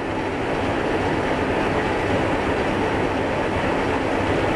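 1946 H.K. Porter 80-ton diesel locomotive and its narrow-gauge train running past, a steady rumble of engine and wheels on rail.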